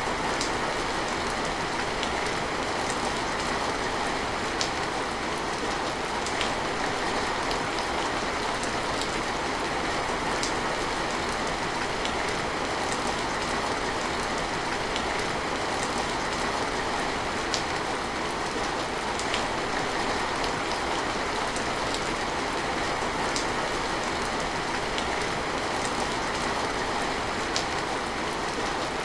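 Steady rain falling, a dense even hiss with the occasional sharper tap of individual drops.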